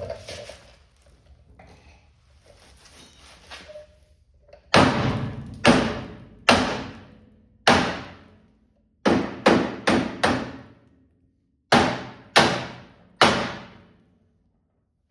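About eleven hard hammer blows on steel, in short runs of one to four, each ringing briefly. This is the work of straightening the bent lower tie bar at the front of a car body. Softer clanks and handling noises come before the first blow, about five seconds in.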